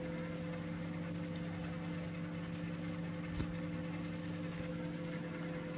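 Steady low electrical hum with a few faint ticks and one soft thump about three and a half seconds in.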